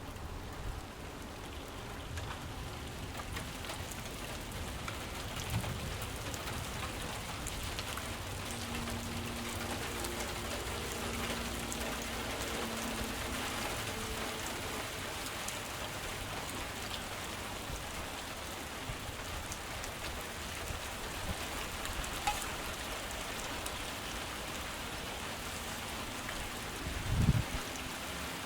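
Heavy rain falling steadily, a constant even hiss of drops on surfaces. A faint low hum sounds for several seconds in the middle, and a single dull low thump comes shortly before the end.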